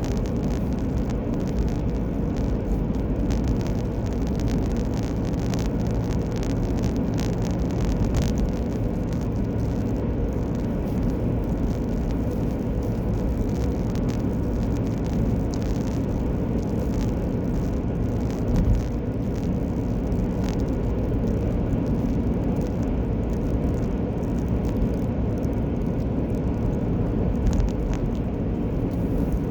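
Steady rumble of a car driving: engine and road noise, with a few faint clicks.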